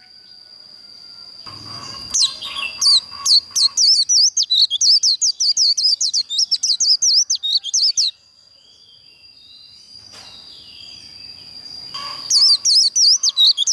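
White-eye singing its 'líu' song: a long, steady high whistle that swells, then breaks about two seconds in into a fast run of warbled, chattering notes, several a second. The run stops about eight seconds in, the held whistle returns, and it breaks into the fast warble again near the end.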